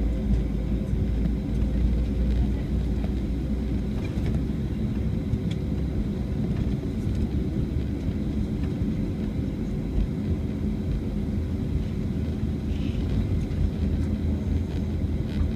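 Airbus A320 cabin noise heard near the rear of the aircraft during departure: a steady engine drone over airflow rumble, with a few faint steady tones. The deepest rumble eases about four seconds in.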